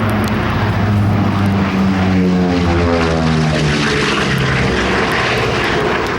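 Piston-engined propeller aircraft flying past with a loud, steady engine note whose pitch slides down as it passes, around the middle.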